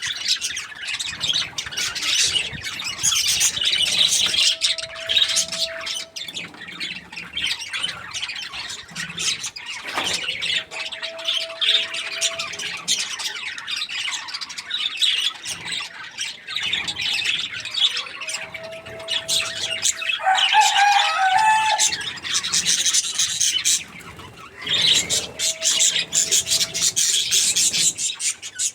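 Budgies (parakeets) chirping and chattering continuously. A short held note comes back four times, about every seven seconds.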